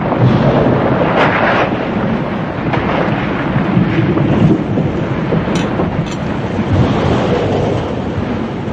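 Typhoon wind gusting hard across the microphone, a loud continuous rumbling rush that swells and eases.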